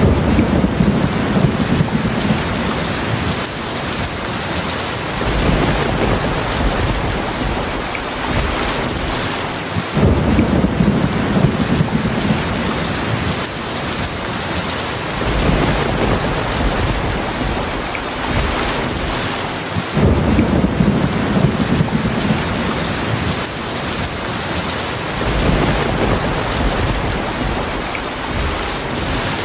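Heavy rain falling in a steady hiss, with low thunder rumbles rolling in and fading every few seconds; the strongest rumbles start suddenly about every ten seconds.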